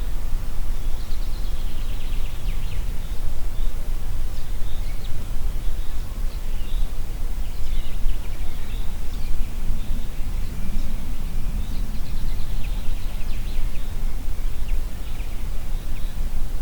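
Wind blowing through trees, with a steady low wind noise, while several songbirds chirp and trill in quick high-pitched phrases throughout.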